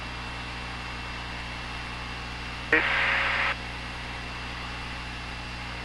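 Cessna 172's piston engine running at steady power, a constant drone heard through the headset intercom. About three seconds in, a click opens a burst of hiss lasting under a second, as the intercom or radio channel opens with no words, then it cuts off.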